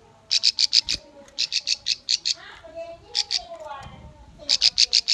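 Bar-winged prinia (ciblek) song: runs of five or six sharp, high notes in quick succession, about six a second, repeated three times. Softer, lower chirps and warbles sound between the runs.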